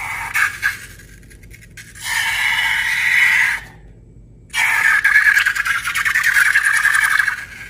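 Rubber balloon squealing in two long, steady, fluttering stretches, separated by a short quiet gap about halfway through.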